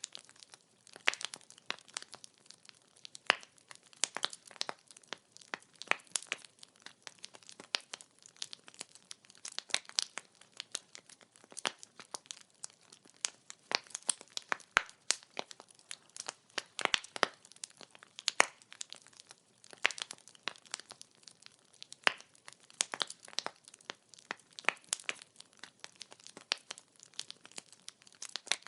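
Firewood crackling as it burns in a wood fire: dense, irregular sharp pops and snaps, several a second.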